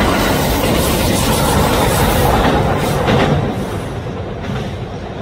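Train running on rails: a loud, steady rumble and rush with a few sharp clacks in the middle, easing off a little near the end.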